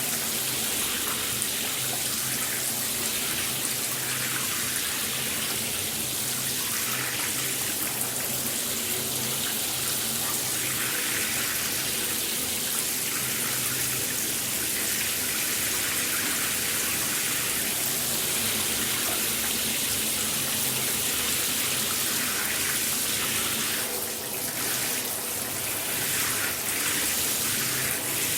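Shower spray running steadily: a continuous hiss of water falling on a surface, with a brief change in the spray near the end.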